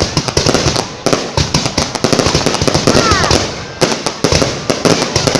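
Fireworks going off in rapid, continuous succession: dense, overlapping cracks and bangs with no pause.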